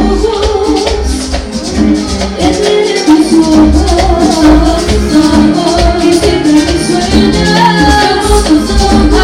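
Loud live Latin tropical dance-band music played through a PA sound system, with a heavy bass line, melodic lines and a shaker rattling along.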